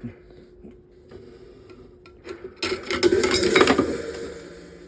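Small metal parts clinking and rattling as they are handled. There are faint scattered clicks at first, then a dense, loud metallic rattle from about two and a half seconds in that fades over the next second or two.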